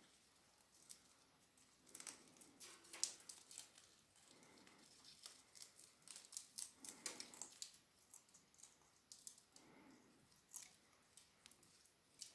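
Faint, scattered clicks and light taps of small objects being handled, clustered around two to three seconds in and again around six to seven seconds in.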